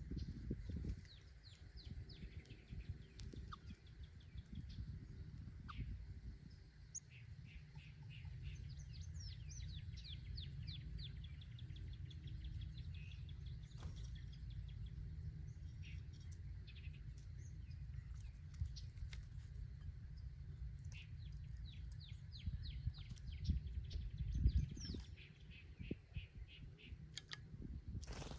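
Small birds chirping in rapid runs of short, quick notes, over a steady low rumble.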